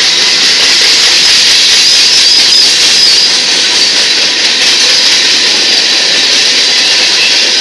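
Empty covered hopper cars of a freight train rolling past, with steady, loud clattering wheel-on-rail noise. A faint high wavering squeal comes and goes around the middle.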